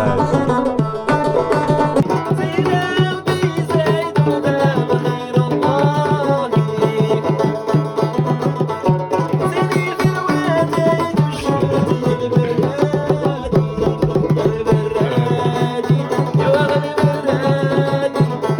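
A banjo played by hand: a quick run of plucked notes in a repeating rhythm over a steady low note.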